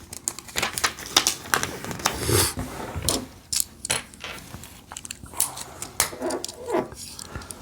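Plastic Lego pieces clicking and rattling as they are handled and pressed together. There are a few short, falling, voice-like sounds near the end.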